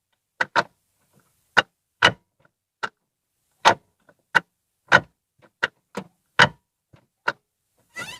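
Ford Fiesta Rocam manual gearbox shift mechanism clacking as gears are selected: a string of sharp metal-on-metal cracks at uneven intervals, some in quick pairs. The owner traces the noise to excessive play in the gear-selector arms on the gearbox.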